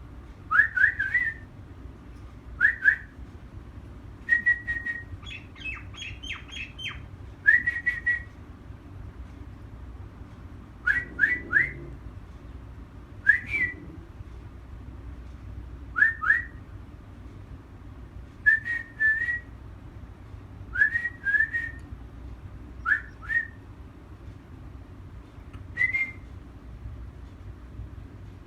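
A bird calling with short rising whistled notes, in groups of two or three, repeated every couple of seconds. A quicker run of higher, falling notes comes about five seconds in. A low steady background noise runs underneath.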